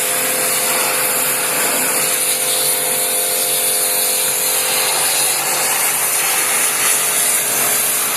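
Electric pressure-washer pump running steadily with a hissing rush of water spray and a steady motor hum, as used to wash an air conditioner's coils.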